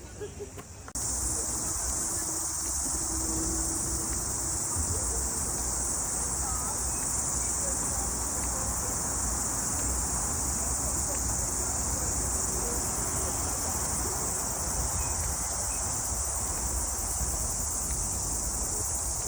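Loud, steady chorus of cicadas shrilling in the trees, a continuous high-pitched buzz that comes in suddenly about a second in.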